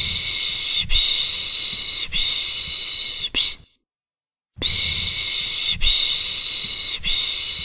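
A person making the Turkish 'pışşş' baby-soothing shushing sound: long hissing shushes, three in quick succession, a pause of about a second, then three more.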